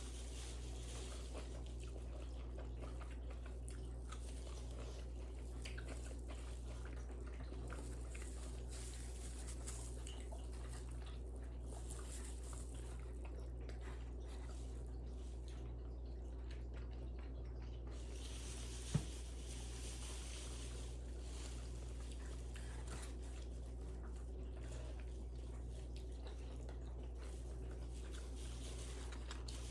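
Close-miked eating: quiet chewing and biting with small wet mouth sounds, over a steady low hum. A sharp click about two-thirds of the way through.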